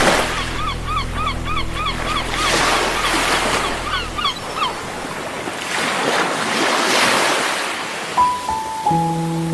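Sea waves washing in and out in slow swells, with a quick run of about a dozen short chirping calls over the first few seconds. A soft held music chord sits underneath, drops out about four seconds in, and returns near the end.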